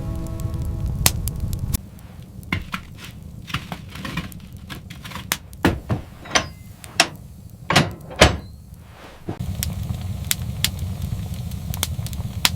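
A run of irregular sharp knocks and cracks, most of them in the middle seconds, over a low rumble that drops away while they sound and comes back near the end.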